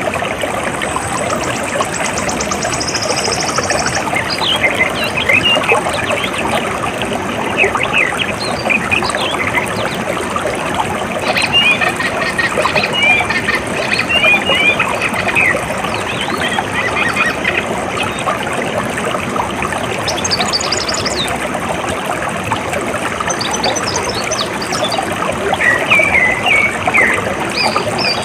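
Steady rush of flowing water, with small birds chirping in short, scattered calls. A rapid high trill sounds in the first few seconds.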